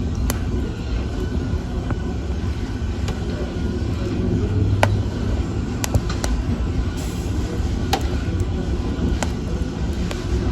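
Wood fire burning in a fireplace: a steady low rumble of the flames with sharp crackles and pops scattered irregularly, about half a dozen in all.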